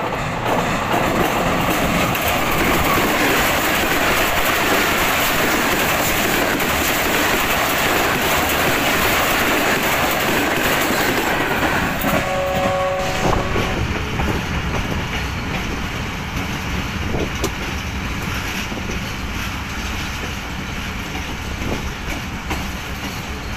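Diesel-hauled passenger train running past close by, a loud steady rumble and rattle of wheels and coaches. About halfway a brief horn blast sounds. After it the sound drops to the quieter steady rumble and clickety-clack of the train heard from aboard a moving coach.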